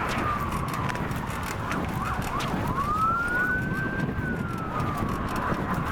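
Fire truck sirens: one wailing in a slow rise and fall, with quicker up-and-down yelps cutting in through the middle, over a steady low rumble.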